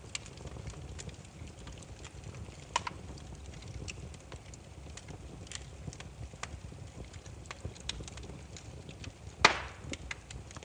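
Wood fire burning with a low steady rumble and scattered crackles, a sharp pop about three seconds in and a louder snap near the end.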